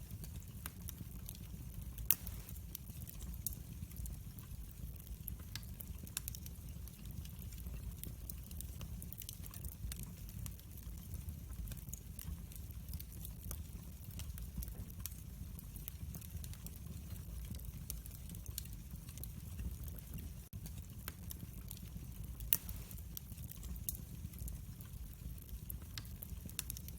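Wood fire burning in a fireplace: a steady low rumble with scattered crackles and sharp pops, two louder snaps about two seconds in and near the end.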